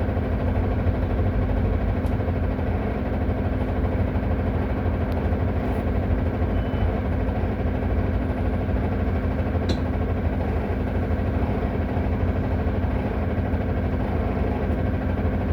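Solaris Urbino 18 articulated bus idling on its parking brake, with a loud, steady rattle over the engine's hum.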